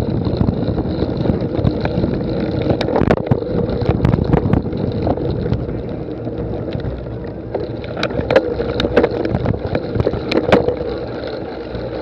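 Low rumbling noise like wind on the microphone, with scattered sharp clicks and knocks, most of them about three to four and eight to ten seconds in.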